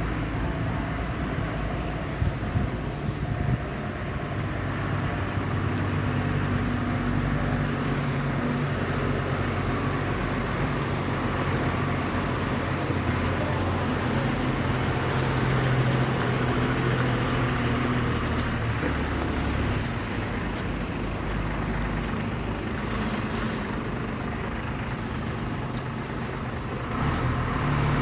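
Truck engine running steadily with a low drone, over road and traffic noise.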